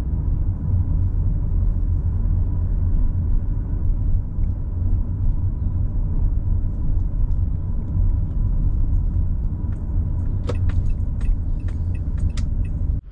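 Car engine and cabin rumble heard from inside the vehicle, steady and low. A few clicks and rattles come in the last few seconds, then the rumble cuts out suddenly near the end as the engine is switched off.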